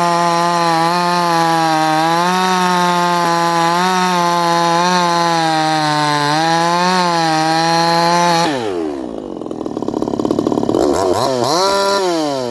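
58cc Chinese two-stroke chainsaw running at full throttle through a cut in wood, its pitch wavering slightly under load. About eight seconds in the throttle is released and the revs drop sharply, then it is blipped once, rising and falling again near the end.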